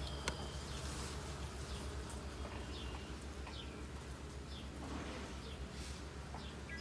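Honeybees buzzing as a steady low hum over an opened hive, with faint short high chirps scattered through it.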